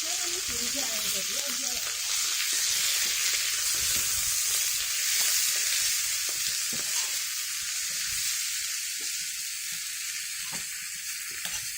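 Food frying in a pan with a steady sizzle, and a few light knocks of a utensil against the pan in the second half.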